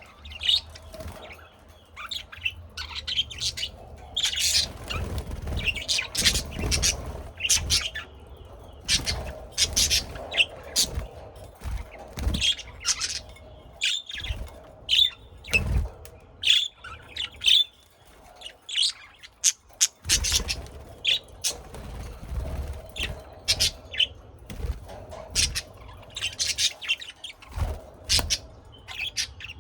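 Many birds chirping and calling at once in quick, overlapping short notes, with occasional harsher squawks, over bursts of low rumble.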